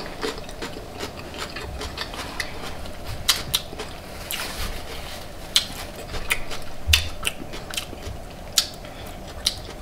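Close-up chewing of a mouthful of crunchy vinegar cabbage slaw: irregular crisp crunches and clicks.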